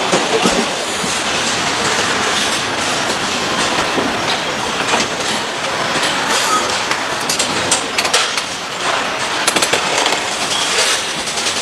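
Factory assembly-line noise: a steady machinery clatter with frequent metallic clicks and knocks, busier about two-thirds of the way through.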